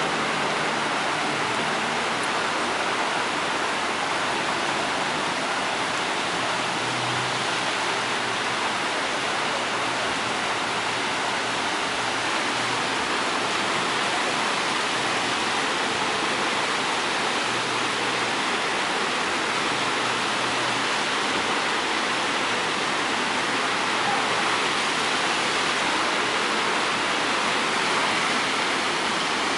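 Heavy rain falling steadily, heard through an open window: an even, constant hiss. A faint low hum comes and goes in the background.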